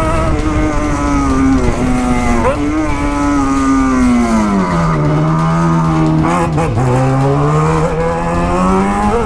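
Motorcycle engine running under way. Its pitch drops over a couple of seconds about halfway through, holds low, then climbs again near the end.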